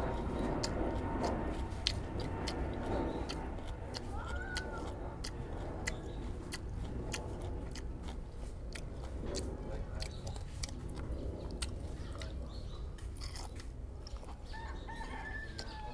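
Close-up chewing and biting of crisp raw vegetable stalks, with many sharp crunches scattered throughout.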